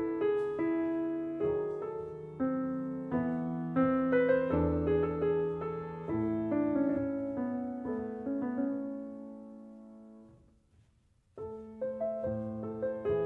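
Background piano music: notes struck and ringing, dying away to silence about ten seconds in, then starting again a second or so later.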